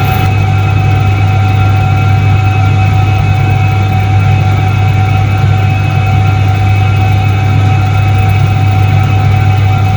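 Soviet 1978 Iset-3 washing machine running steadily: an even, loud motor hum with a constant higher whine above it.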